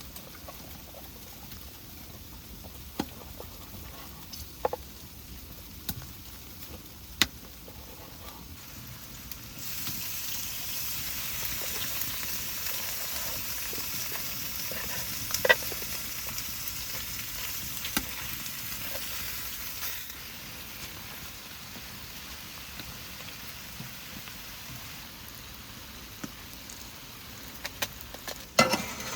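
Food sizzling in a hot pan, a high hiss that starts suddenly about ten seconds in and stops just as suddenly about ten seconds later. Scattered sharp pops and crackles sound throughout, with a small cluster near the end.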